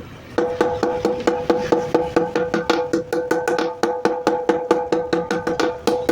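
Hammers striking hot steel on an anvil while forging a golok blade, in a fast, even rhythm of about five blows a second. Each blow rings with a clear metallic tone. The hammering starts about half a second in.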